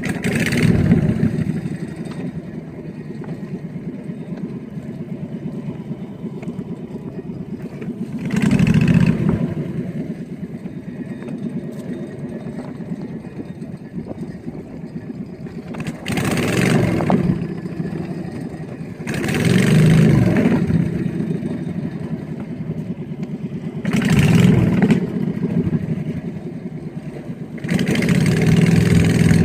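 Small boat's engine running steadily underway. Its sound swells louder six times, for a second or two each time.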